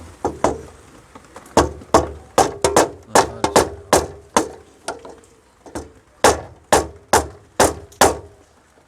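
A bent part of a three-phase main switch being struck over and over to straighten it: about twenty sharp knocks, two to three a second, some leaving a short ring, stopping near the end.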